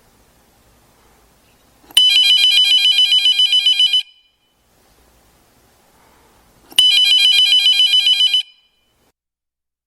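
Telephone ringing: two rings with a rapid trill, the first about two seconds long and the second a little shorter, starting about five seconds apart, each beginning with a sharp click.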